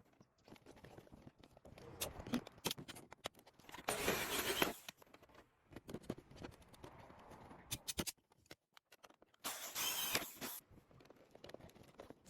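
Scattered light clicks and taps of bodywork tools being handled at an aluminium car fender, with two short hissing bursts, one about four seconds in and one about ten seconds in.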